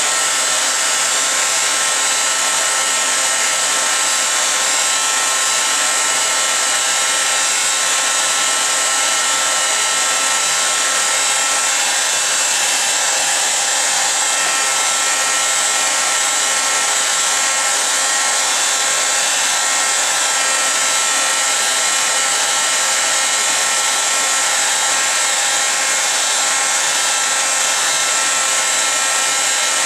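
Steady whooshing of an electric blower or fan running at constant speed, with several faint steady whine tones over the hiss.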